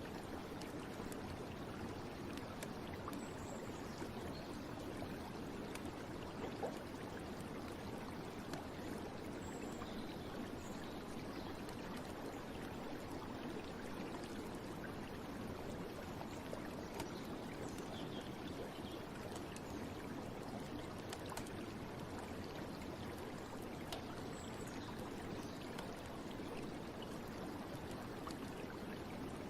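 Running water of a stream, a steady even rush with a few faint ticks scattered through.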